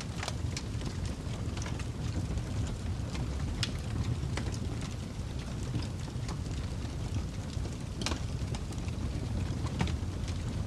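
Fire crackling: a steady low rumble of burning with irregular sharp pops and snaps scattered through it, a few of them standing out clearly.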